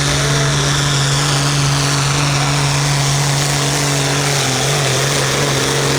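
Light pro field pulling tractor's engine running loud at a steady high speed under load during a pull. Its pitch wavers briefly about four seconds in.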